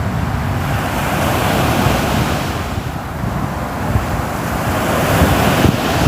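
Ocean waves breaking and washing up the shore, the surge swelling about a second in and again about four seconds in, over a steady low rumble of the sea.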